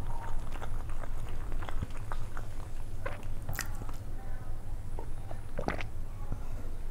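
Close-miked chewing and wet mouth clicks and smacks of a person eating pulao rice and boiled egg by hand, with a sip of water near the end, over a steady low hum.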